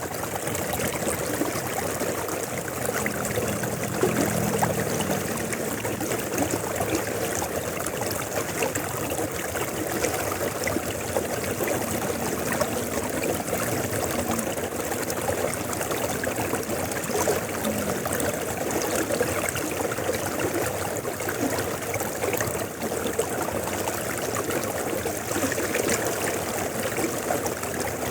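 River water flowing and splashing in a steady, continuous rush.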